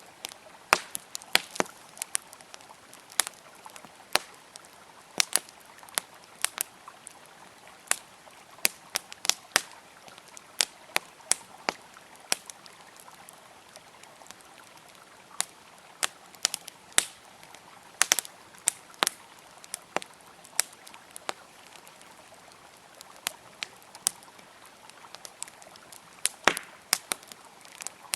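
Wood fire crackling, with irregular sharp pops and snaps, some in quick clusters, over a faint steady rush of flowing river water.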